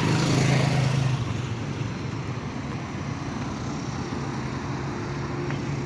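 Engine hum and rushing noise of a passing motor vehicle, loudest about the first second and then slowly fading away.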